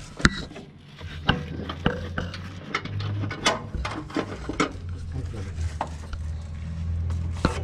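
Irregular metallic clinks and knocks of hand tools and steel parts being worked on a combine harvester, over a low steady hum that grows louder near the end.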